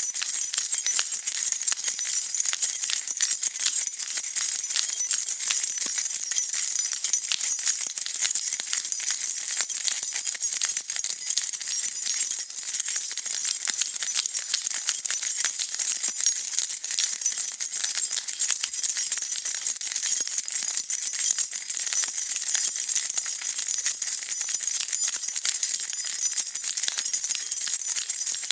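A bunch of metal keys jingling as it is shaken continuously, a dense, unbroken run of bright clinks.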